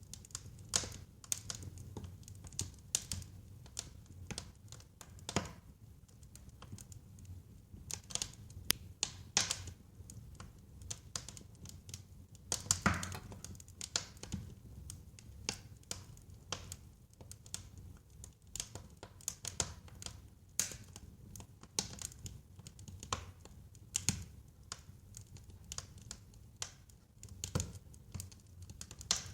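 Wood fire burning in a fireplace: a low steady rumble of flames under irregular sharp crackles and pops, the loudest pop about halfway through.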